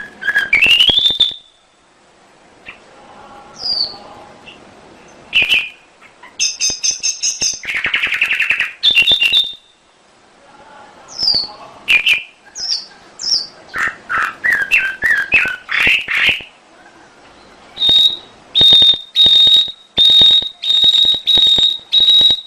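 Domestic canary singing: a varied song of loud chirps, fast trills and gliding whistled notes broken by short pauses, ending in a run of evenly repeated high notes.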